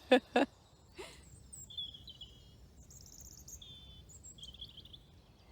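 Small songbirds singing: several short, high twittering and trilling phrases, one after another, over a quiet still background. A woman's voice sounds briefly at the very start.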